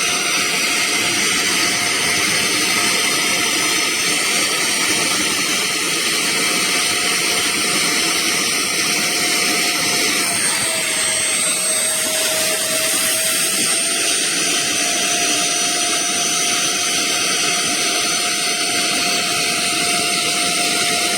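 Portable upholstery spot cleaner's 450 W suction motor running steadily with a high whine; its pitch dips for a few seconds about halfway through, then comes back up.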